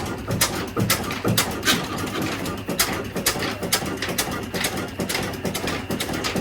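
An 18 HP stationary diesel engine running slowly, each firing a sharp knock, about three a second and slightly uneven.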